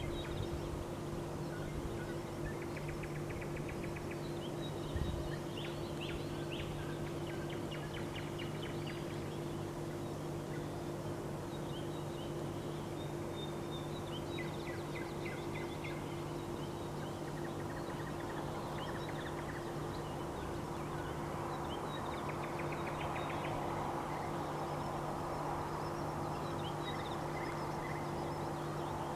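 Songbirds singing in short, rapidly trilled phrases every few seconds over a steady low hum of city noise.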